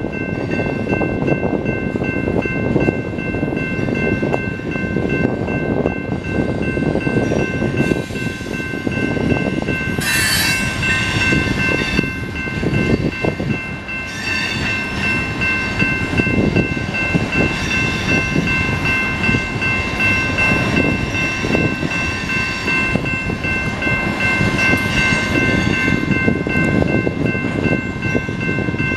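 Loaded BNSF tank cars rolling through a grade crossing: a continuous rumble and rattle of wheels on rail, with the crossing's warning bell ringing steadily over it. About ten seconds in, a brief high screech of wheel squeal.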